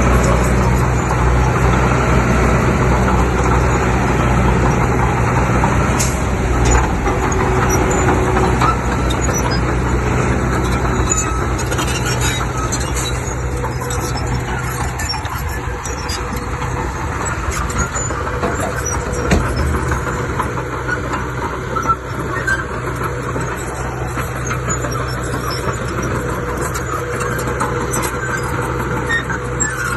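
Heavy diesel earthmoving machinery running steadily, with a low engine drone that eases off about halfway through, and scattered small knocks.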